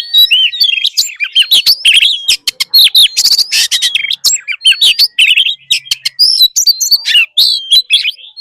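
Oriental magpie-robin singing a fast, loud, unbroken song of varied whistled notes, slurred glides and sharp clicking, rasping notes, in the full 'wild voice' style used to spur other magpie-robins to sing.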